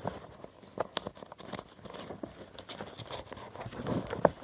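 A5 copy-paper airplane being folded and creased by hand, its spare flaps tucked underneath: scattered soft rustles and small taps, with a sharper crisp snap about four seconds in.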